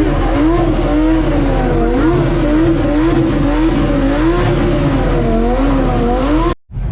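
A car engine revving up and down over and over, its pitch rising and falling every second or so, cutting out suddenly near the end.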